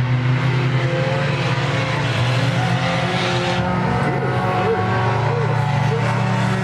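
Race car engines running steadily on the track, with a few brief rises and falls in pitch about two-thirds of the way through.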